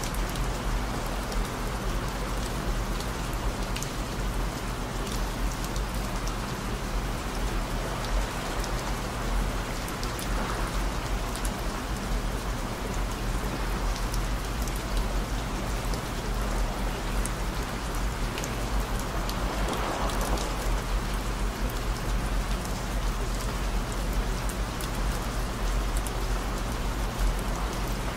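Steady rain falling, with fine pattering drops, over a bed of low, constant tones near 55, 117 and 221 Hz that sound as a steady hum.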